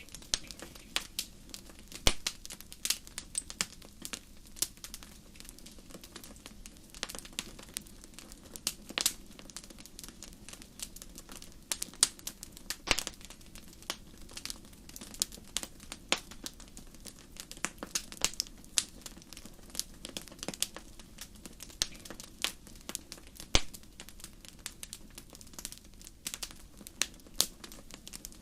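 Fire in a fireplace crackling: irregular sharp pops and snaps, several a second at times, over a steady low hush of burning.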